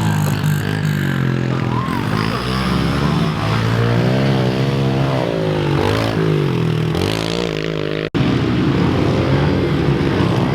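Small four-stroke pit bike engines revving up and down as the bikes ride, the pitch rising and falling every second or so. The sound drops out abruptly about eight seconds in and comes back at once with a busier engine noise.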